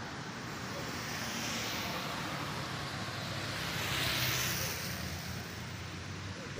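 Street traffic noise, with a vehicle passing and swelling loudest about four seconds in.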